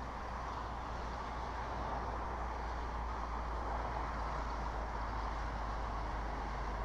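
Steady outdoor background noise picked up by the nest camera's microphone: an even rushing hiss, like wind or distant traffic, with a constant low hum underneath and no distinct calls.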